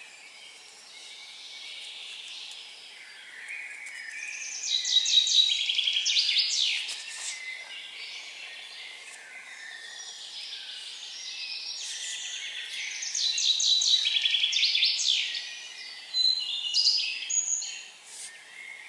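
A songbird singing two phrases of rapid trilled notes about eight seconds apart, each lasting two to three seconds and ending in a quick flourish, with a few shorter bird calls near the end.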